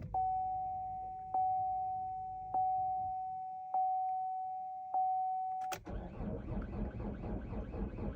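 Five chimes from the 2014 Chevrolet Cruze's dashboard, each on the same tone, about one every 1.2 seconds. A click follows about halfway through, and then the starter cranks the cold diesel engine in an even, rhythmic churn without it firing yet, after days of sitting below 20 degrees.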